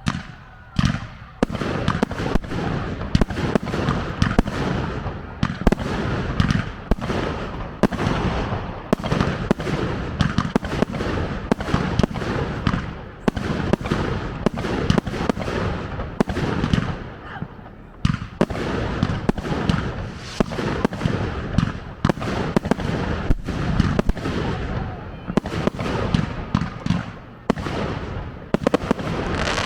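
Fireworks display: a rapid, continuous barrage of shell bursts and crackling, many bangs a second, which starts abruptly.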